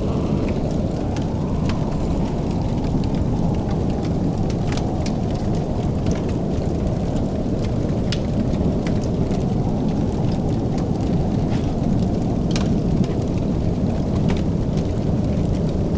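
Wood fire crackling in a fireplace: scattered sharp pops and snaps over a steady low rushing rumble.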